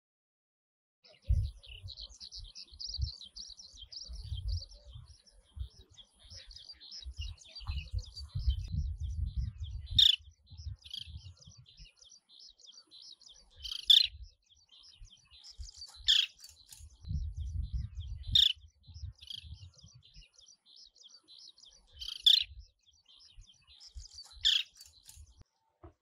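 Oriental pratincoles calling: a continuous chatter of high chirps, with about six louder, sharp calls a few seconds apart, over an intermittent low rumble.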